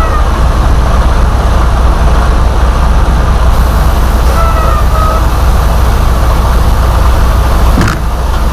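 Semi-truck diesel engine running with a steady low rumble. A brief faint high squeak comes about halfway through, and a short click comes near the end.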